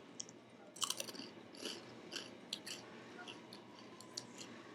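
A person chewing rice crackers with seaweed: a string of sharp, crisp crunches starting about a second in and continuing irregularly for about three seconds.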